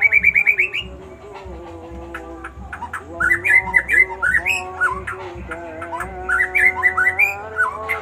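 A songbird singing: a fast trill of repeated notes climbing in pitch that stops about a second in, then, after a pause, a run of varied whistled phrases with quick up-and-down slides, over soft background music.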